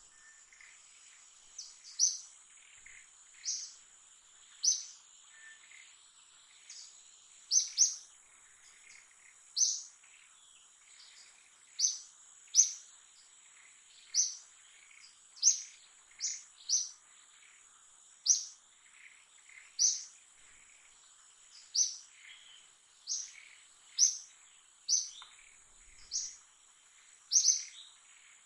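Short, sharp, high bird chirps repeating every second or two over a steady high insect whine, like cicadas or crickets.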